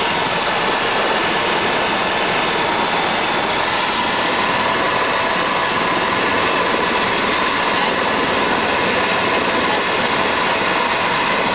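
Tour helicopter's engine and rotor running steadily at flight power, a loud, even noise that does not change.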